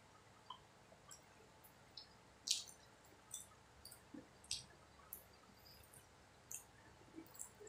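Faint wet mouth sounds of someone eating soft, sticky sweet martabak: scattered short smacks and clicks of chewing and of fingers at the lips, two of them louder, around two and a half and four and a half seconds in.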